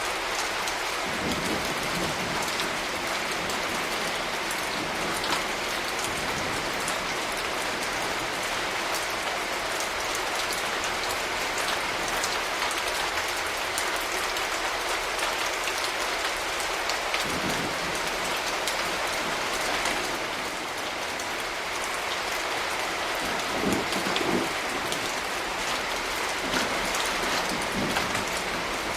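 Steady rainfall, with many individual drops ticking close by. A few brief low knocks stand out, the loudest about two-thirds of the way through.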